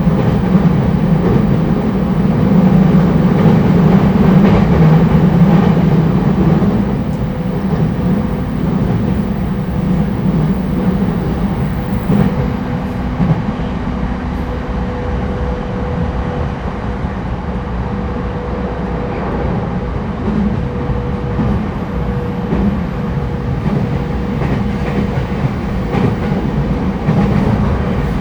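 Interior running noise of a JR East E231-1000 series commuter train at speed: a steady rumble of wheels on rail with a thin steady hum over it. The rumble is heavier for the first several seconds, then settles.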